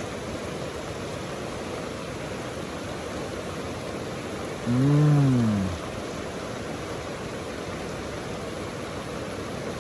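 Steady rush of water from a small waterfall and stream. About five seconds in, a man makes one short voiced sound, like a hummed 'mm', that rises and then falls in pitch.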